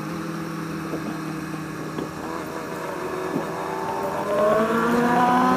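Motorcycle engine running under way, its note steady at first, then climbing in pitch and getting louder over the last two seconds as the bike accelerates.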